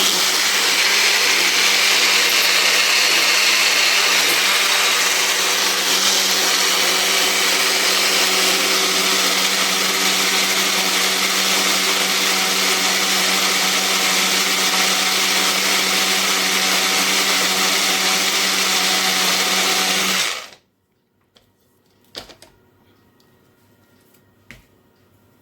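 Electric blender running steadily with a motor hum, grinding soaked rice and orange peel a second time because the paste still has rice grains in it. It switches off abruptly about twenty seconds in, followed by a couple of faint clicks.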